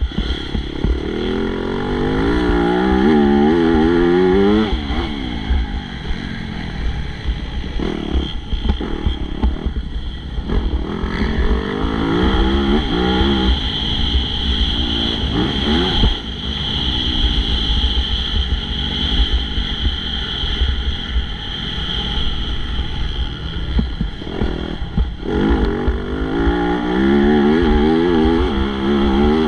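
MX2 motocross bike engine under racing load, revving up and dropping back over and over as the rider works the throttle and shifts, with louder pulls near the start and near the end.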